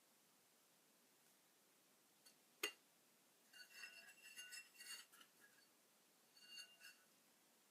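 A single sharp click, then light clinking of small hard objects with a brief ringing tone, in two spells.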